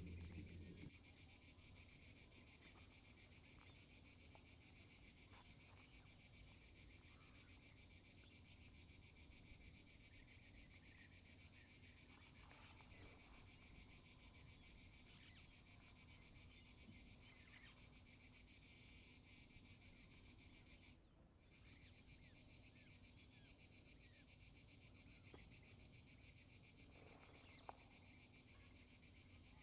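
Faint, steady high-pitched insect chorus, a continuous shrill trilling of crickets or cicadas, which cuts out briefly about two-thirds of the way through.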